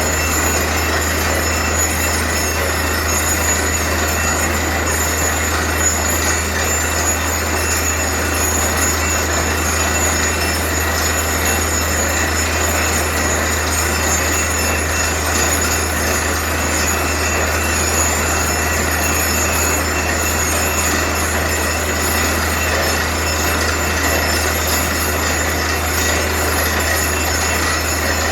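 Borewell drilling rig machinery running steadily: a constant loud mechanical noise with a deep, unchanging hum underneath.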